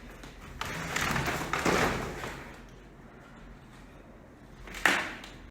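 Locked door being pushed and rattled: a scraping rattle for about two seconds, then one sharp knock near the end.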